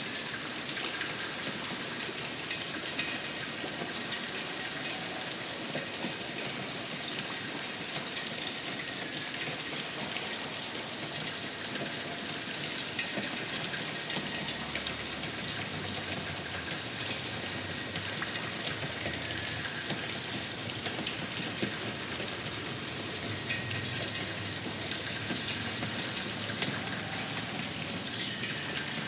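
Steady rain falling, a continuous even hiss of water with no break.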